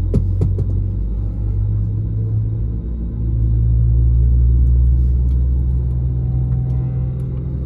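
Low, steady cabin rumble of an Airbus A320neo on the ground, heard from a window seat, with a sharp knock just after the start. The rumble swells about three seconds in and eases again after about five and a half seconds.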